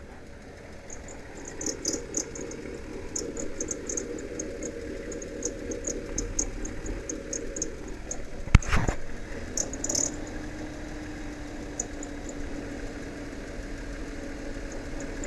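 Dodge Caravan engine idling steadily, heard from beneath the van, with scattered light clicking. One sharp knock comes just past halfway.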